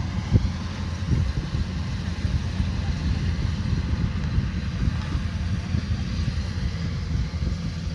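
Kubota DC105X combine harvester's diesel engine and threshing machinery running steadily with a low rumble, with a brief sharp knock about half a second in.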